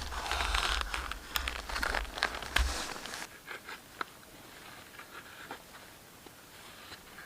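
Close rustling and crinkling handling sounds with a few sharp clicks for about three seconds, then only faint scattered ticks.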